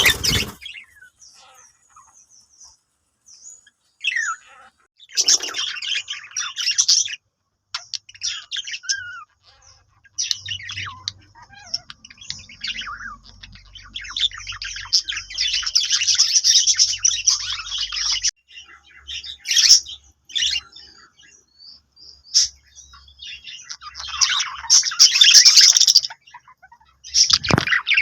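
Budgerigars chattering and chirping in bouts of rapid high warbling, broken by short pauses; the longest and loudest run comes around the middle, with another near the end.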